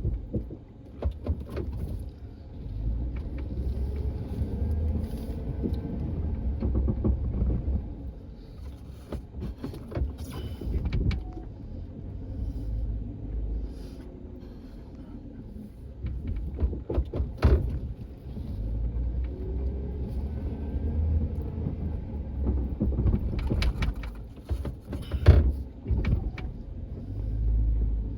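A heavy vehicle engine working in deep snow, revving up and easing off again and again, with sharp knocks and clanks of machinery several times, the loudest about two thirds of the way through.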